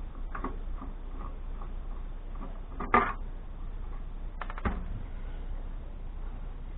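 Scattered light clicks and knocks of hard parts being handled while an electronic board is taken out of an amplifier, with one sharper knock about three seconds in and a quick run of clicks about a second and a half later.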